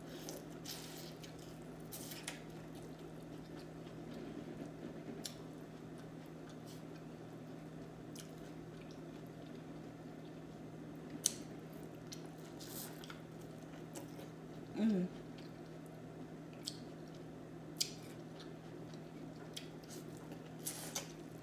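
Close-up eating sounds: biting kernels off a sauce-coated corn cob and chewing, with scattered wet clicks and squishes from the mouth, over a steady low hum. A short hum of the voice comes about fifteen seconds in.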